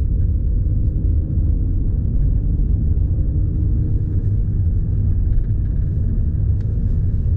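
2009 Volkswagen Golf Plus's 1.4 TSI twincharged four-cylinder engine running steadily, a deep even sound with no revving up or down.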